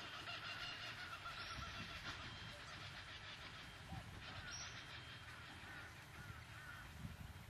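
Faint honking bird calls, several short calls repeated over a few seconds, above a low steady rumble.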